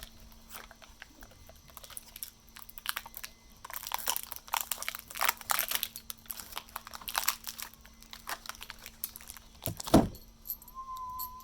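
Rustling, crinkling and clicking from furniture parts and hardware being handled during assembly, with one heavy thump about ten seconds in. A single held whistled note starts near the end.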